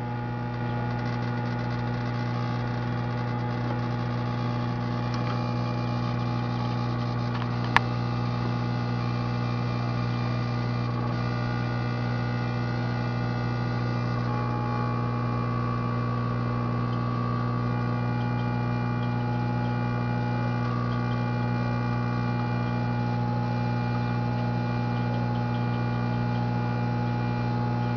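Microwave oven running flat out with a steady, loud electrical hum full of overtones, the buzz of its high-voltage transformer while the oven arcs inside and burns itself out. A single sharp snap comes about eight seconds in.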